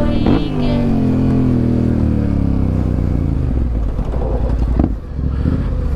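Motorcycle engine rising briefly in pitch at the start, then falling steadily over a couple of seconds as the bike slows, then running on with a rougher, lower sound.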